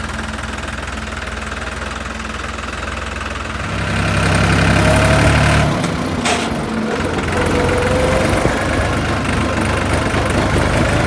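Tractor diesel engine running steadily, then growing louder about four seconds in. A single sharp clunk comes a little past six seconds, and the engine runs on at the higher level.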